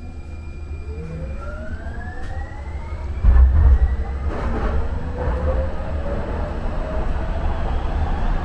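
Muni Metro light-rail car accelerating in the subway tunnel: the traction motors whine, rising steadily in pitch as the train picks up speed, over a low rumble of wheels on rail that gets suddenly louder about three seconds in.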